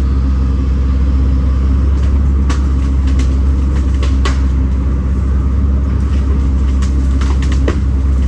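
Kobelco SK210 excavator's diesel engine running steadily while the machine works, with a few short sharp knocks over its hum.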